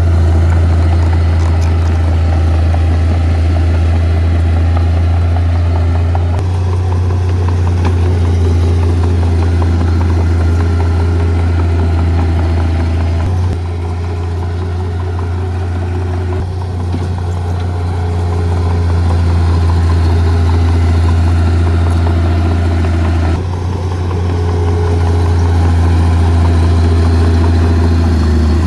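Heavy diesel engine of earth-moving equipment running steadily under load, a deep steady drone with engine tones above it; the sound shifts abruptly a few times.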